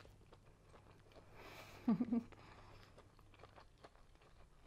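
A person chewing a mouthful of tofu-skin (yuba) drumstick with the mouth closed, giving faint soft clicks of chewing, with a short hummed 'mm' about two seconds in.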